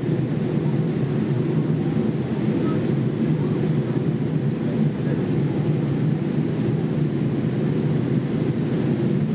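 Steady airliner cabin noise of a Boeing 787-8 in flight: a low, even rush of airflow and engine noise heard from inside the cabin.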